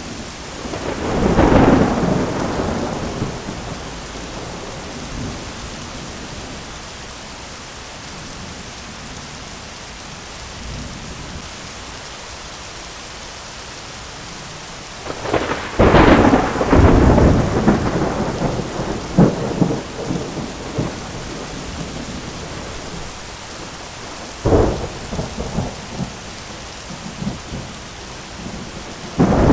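Thunderstorm: steady heavy rain hissing throughout, with rolls of thunder about a second and a half in, a loud crackling peal around the middle that rumbles on for a few seconds, a shorter crack later, and another roll beginning at the end.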